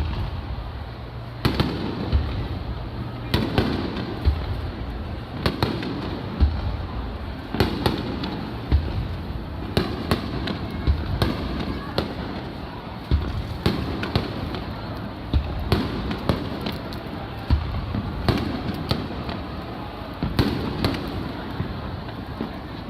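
Aerial firework shells bursting in a steady barrage, a sharp bang every second or two, each trailing off in a low rumble, over a murmuring crowd.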